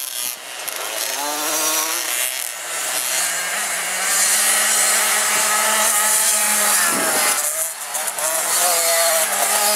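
Several 50 cc two-stroke motocross bikes running at once, their buzzing engine notes rising and falling as the riders rev and shift.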